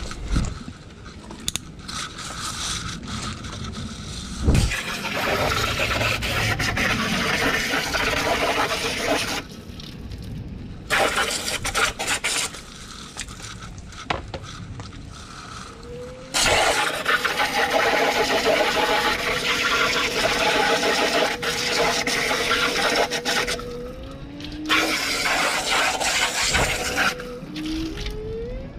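Honeybees buzzing around an open hive. One bee hums steadily close to the microphone, its pitch rising briefly as it moves, over several stretches of loud hissing noise.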